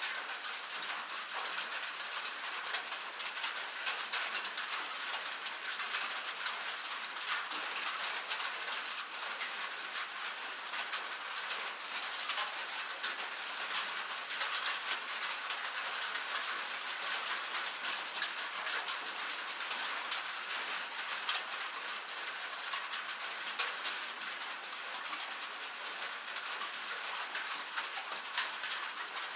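Steady rain pattering on a metal roof: a dense, even hiss of countless small drop ticks.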